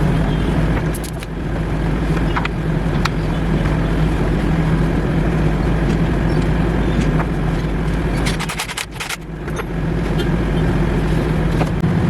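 Air compressor running with a steady hum, dipping briefly about nine seconds in, where a few sharp clicks are heard.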